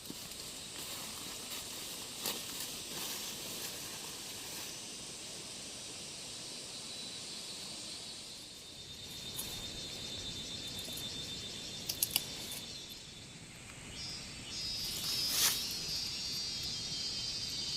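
Steady high hiss of outdoor ambience with insects trilling. A few sharp clicks come about twelve seconds in.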